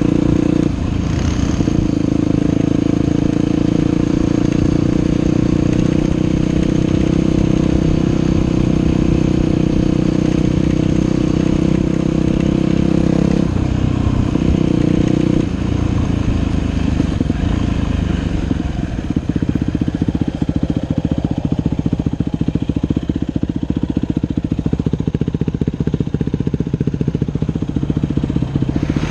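Dirt bike engine running at a steady throttle, with a brief change in revs about 13 and 15 seconds in, then settling to lower revs for the last ten seconds.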